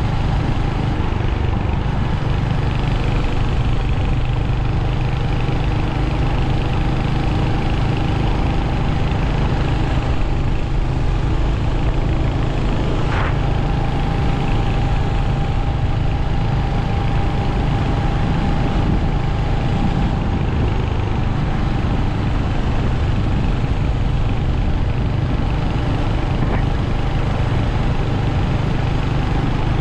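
Royal Enfield Hunter 350's single-cylinder engine running steadily at an even pitch, with no revving.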